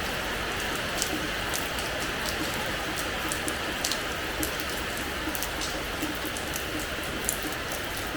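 Steady rain falling on a hard terrace floor: an even hiss with many sharp drop ticks scattered through it.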